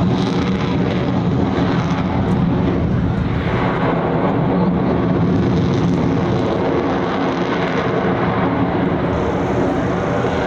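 Aircraft engine noise from a fixed-wing aircraft at an air display, loud and steady, with a pitched hum underneath.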